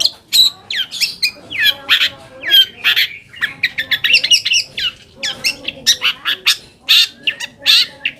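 Long-tailed shrike (cendet) singing a fast, harsh, chattering song of scratchy notes and sharp downward-sweeping whistles, almost without pause.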